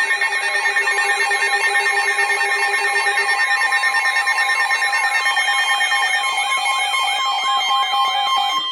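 Layered electronic emergency alert tones for a severe weather warning: several steady tones held together, with a fast warbling wail that rises and falls about three times a second.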